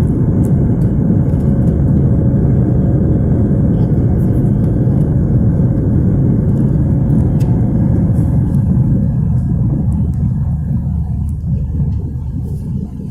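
Cabin noise in an Airbus A320 on takeoff: a loud, steady low rumble that eases off and thins over the last few seconds.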